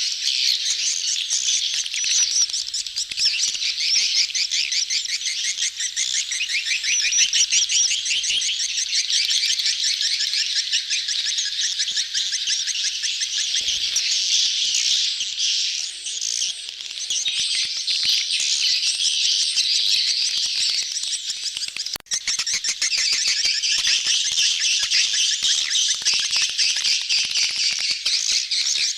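A crowded swiftlet colony twittering: many rapid, high, buzzy chirps overlap without pause. These are the mating and crowding calls used as a lure sound to draw swiftlets into a nest house. The sound breaks off for a moment about three-quarters of the way through.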